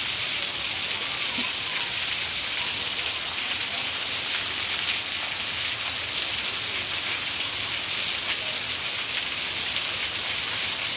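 Heavy tropical downpour: a steady, dense hiss of rain pelting a paved street and roof.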